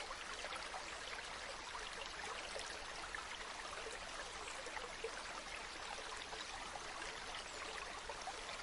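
A small stream babbling steadily, water splashing and trickling over stones in many small splashes.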